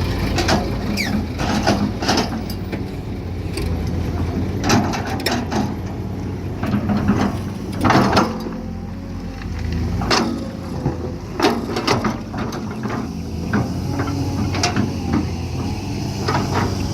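Excavator engine running steadily, with irregular sharp knocks and cracks of stone as the bucket presses down on rock; the heaviest knocks come about halfway through.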